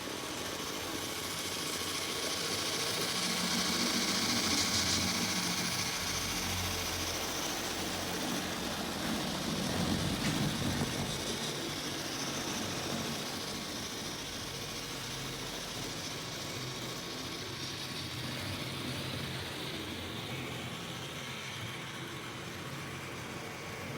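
N scale model train running on loose code 55 track laid on foam board, a steady mechanical rumble and whir from the locomotive and rolling wheels that the foam amplifies. It swells as the train passes close about four seconds in and again around ten seconds, then eases off.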